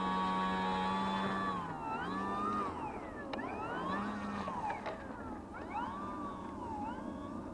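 Electric motor and propeller of a 3D-printed RC Spitfire model being throttled up and down: a whine that rises and holds for about a second and a half, then drops and rises again in a few shorter bursts, with a thin high whine over it.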